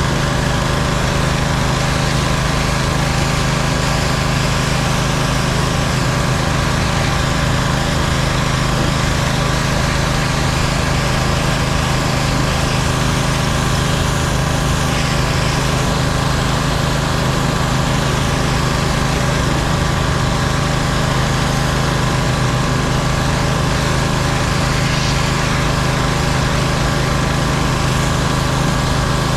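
Pressure washer's small gas engine running steadily at constant speed.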